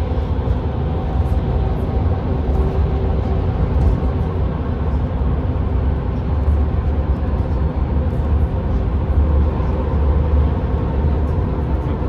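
Steady road noise inside a moving car: a constant low rumble of tyres and engine with a steady hum over it.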